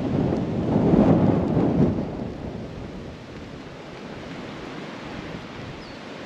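Storm wind buffeting the microphone: a loud rushing gust that swells about a second in and eases off after two seconds, settling to a steadier lower rush.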